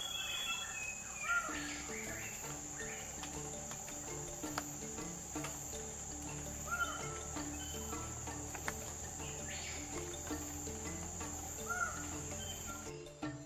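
A steady high insect drone that cuts off suddenly near the end, with a few short, arched bird calls over it.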